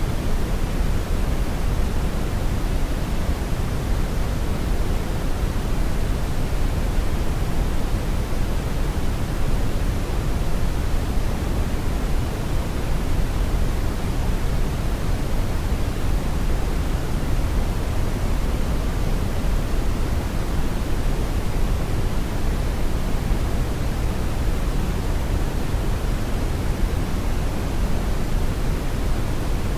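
Brown noise: a steady, deep rushing hiss, heaviest in the low end and falling off toward the highs, with no changes.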